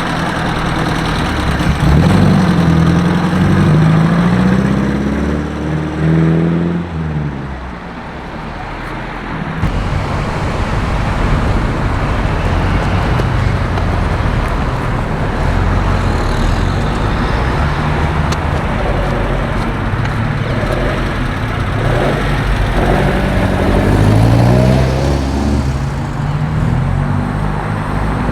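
Car engines running and accelerating away, their pitch rising about two seconds in and again after about twenty-two seconds, over a steady background of engine and road noise.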